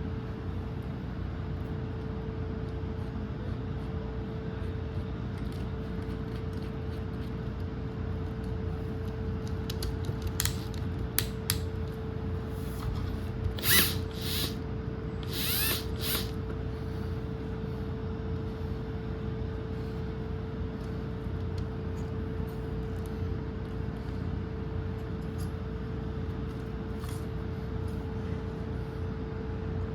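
Small electric drill's chuck being opened and tightened by hand to swap in a 2.5 mm bit: scattered clicks and ratcheting, mostly in the middle, over a steady hum.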